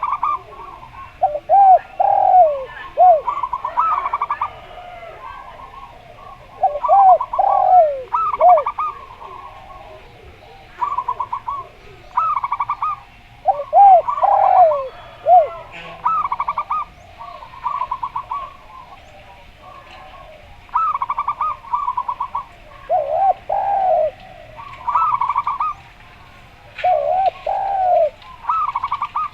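Zebra doves (perkutut) giving rapid, staccato cooing phrases, answered and overlapped by the lower, swinging, arched coos of derkuku turtle doves. The calls repeat every few seconds.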